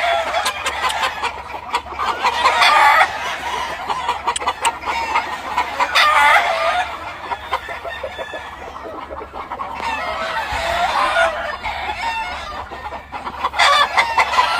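A yard of gamefowl: roosters crowing several times over steady hen clucking.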